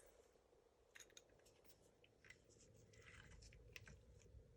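Near silence with faint small clicks and rustling of small parts being handled, a couple of separate clicks about a second in and light rustling and ticking in the second half.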